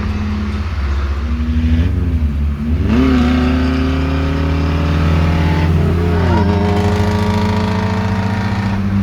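Car engine idling, with a short blip of the throttle, then revved up about three seconds in and held at higher revs for about three seconds before dropping back to idle.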